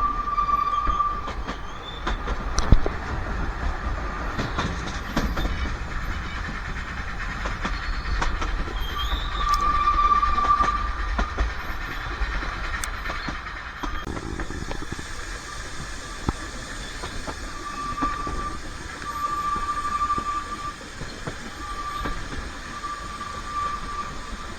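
Narrow-gauge railway carriages running, with a steady rumble from wheels on the track, a sharp knock about three seconds in, and a wheel squeal that comes and goes: once near the start, again about ten seconds in, and on and off through the last seven seconds.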